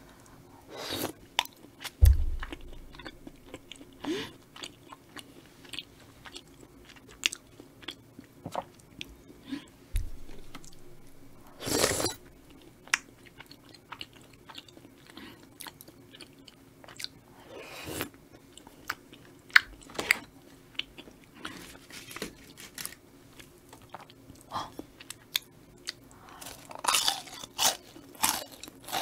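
Close-miked eating sounds: chewing and wet mouth sounds of rose cream tteokbokki, with scattered clicks of a wooden spoon and chopsticks on a ceramic plate. A dull thump comes about two seconds in.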